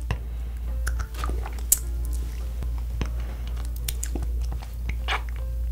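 Close-up mouth sounds of biting and chewing a Nik-L-Nip wax bottle candy: irregular soft crunches and clicks of the wax, with one sharp click about a second and a half in, over a steady low hum.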